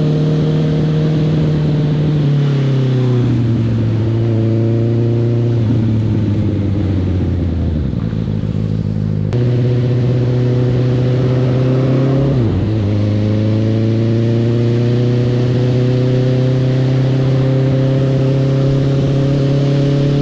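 Honda CB650R's inline-four engine running under way: its note falls in steps over the first eight seconds, jumps back up abruptly about nine seconds in, dips briefly near twelve seconds with a gear change, then climbs slowly and steadily.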